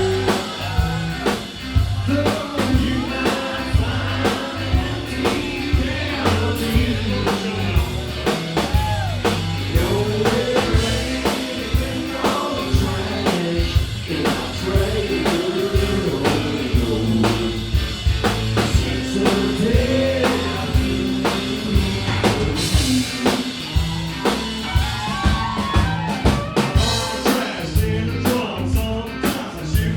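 Live band music with a lead singer over a drum kit and bass, a steady beat running throughout.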